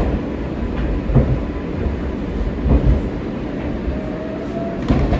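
R143 subway car running between stations: a steady rumble of wheels on rail, with a few knocks as the wheels cross rail joints and a faint motor whine.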